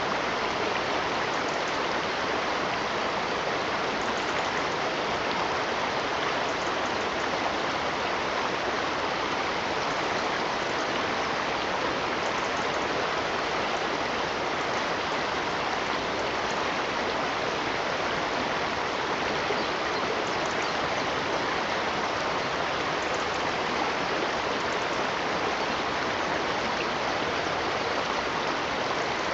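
Stream water running with a steady, even rush that does not change.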